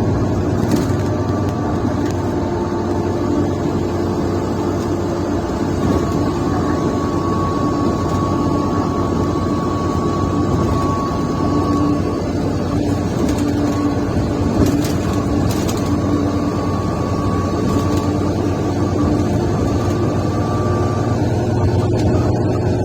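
Mercedes-Benz O530 Citaro intercity bus heard from on board while it is driving: its diesel engine and defective exhaust give a steady, loud drone with a held whine over it and a few short rattles.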